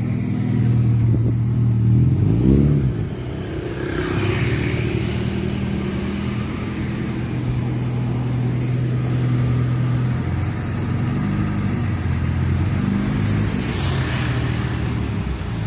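Sedan's engine running at idle, with a short rev about two and a half seconds in.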